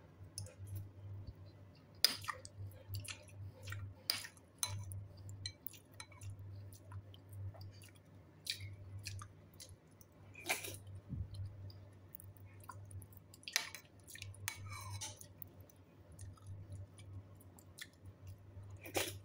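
A person eating tofu and bottle-gourd soup with rice: chewing throughout, with scattered sharp clicks at irregular moments.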